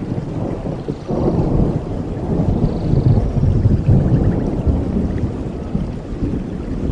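Waterfall's rushing water: a loud, deep, continuous rumble that grows louder about a second in.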